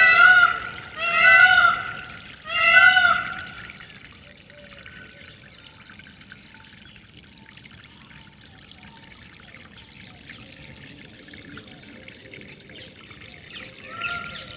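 A bird's loud call, repeated three times in the first three seconds and again near the end, over steadily flowing water; between the calls the water runs on with faint chirping.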